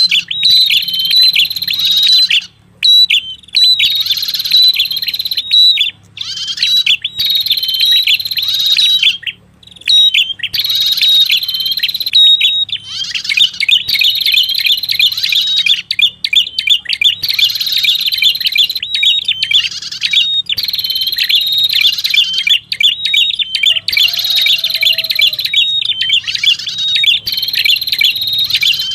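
Red-headed prenjak lure call: rapid, repeated high chirping phrases, with brief pauses between the first few phrases and then almost unbroken, played as a bird-catcher's lure recording.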